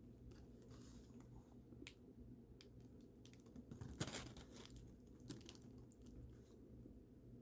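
Faint scattered crackles and clicks of a fried-chicken meal being handled and eaten, the loudest crackle about four seconds in.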